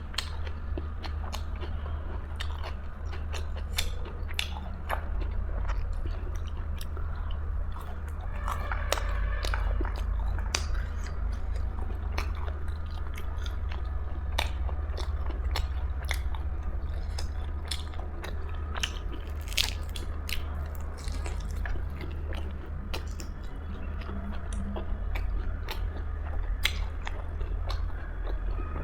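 A person chewing and biting food, with repeated crunches and mouth clicks.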